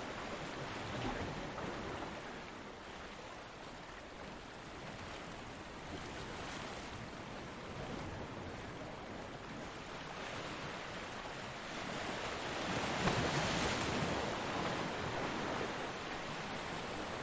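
Ocean surf: waves washing onto the beach in a steady rush, with one wave swelling loudest about two-thirds of the way through.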